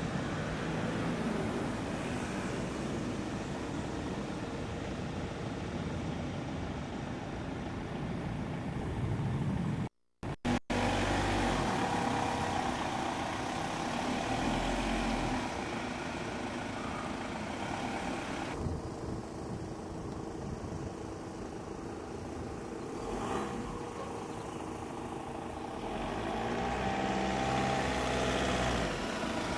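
Car engine running, with steady outdoor background noise; near the end its note rises and falls as the car moves off. The sound drops out briefly about ten seconds in.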